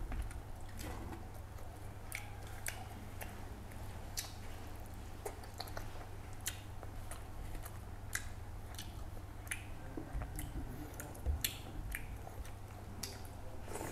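Close-up mouth sounds of a person chewing and biting pieces of fish eaten by hand with rice: many short, irregular clicks and smacks.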